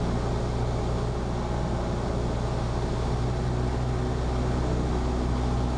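Cessna 172P's four-cylinder Lycoming engine and propeller droning steadily in flight, heard inside the cockpit as an unbroken low hum.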